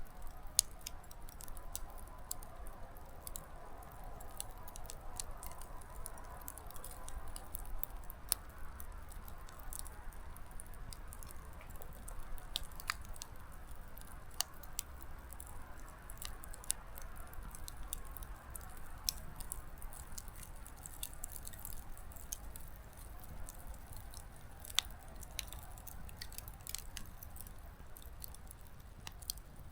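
Small wood campfire crackling: irregular sharp pops and snaps of burning firewood, a few louder than the rest, over a soft rushing of flame. The fire is picking back up after nearly dying out.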